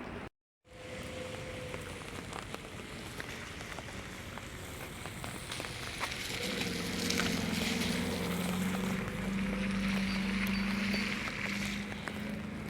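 Outdoor rain ambience, a steady hiss with small scattered drop-like ticks. About halfway through, a steady low motor hum comes in and grows louder. The sound cuts out completely for a moment near the start.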